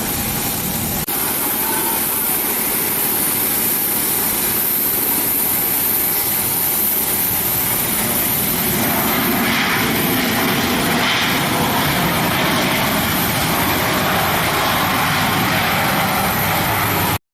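Jet engines of a Boeing 737-900ER (CFM56-7B) running steadily, a loud rush with a constant high whine. The sound cuts off suddenly near the end.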